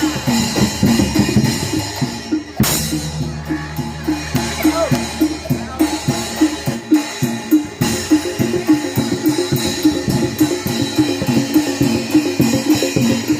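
Live Javanese gamelan accompaniment for Barongan Blora: fast, dense drumming over ringing metal percussion tones, with a low sustained hum that stops about seven seconds in.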